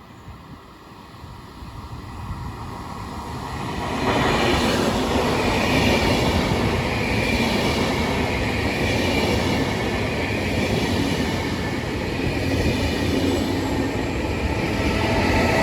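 A train approaching and passing through a station. It grows louder over the first four seconds, then the wheels run loud and steady on the rails, with a faint high squeal from the wheels.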